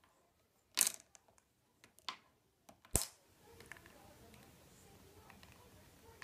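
Parrot's beak chewing on a comb: a few sharp, irregular clicks and cracks in the first three seconds, then only faint ticks.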